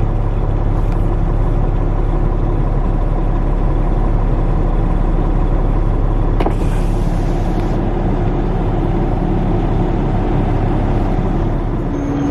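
Semi truck's diesel engine idling steadily with a low rumble. About six and a half seconds in there is a sharp click followed by a brief hiss.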